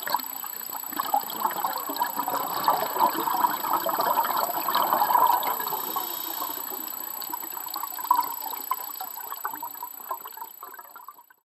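Water splashing and bubbling, a steady crackly gush that fades out near the end.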